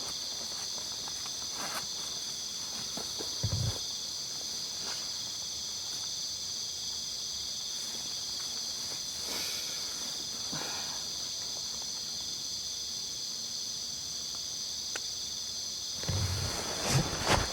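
Insect chorus: a steady high-pitched trill in several layered bands, with a few scattered knocks and a burst of rustling near the end.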